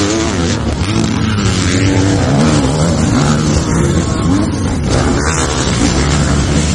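Several dirt bike engines racing, their pitch rising and falling as they rev and ease off.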